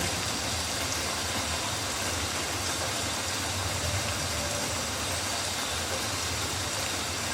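Steady rain falling on rainforest foliage: an even hiss with a constant low rumble underneath.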